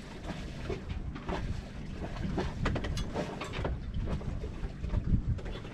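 Wind buffeting the microphone aboard a sailboat: a low, flickering rumble with scattered small knocks.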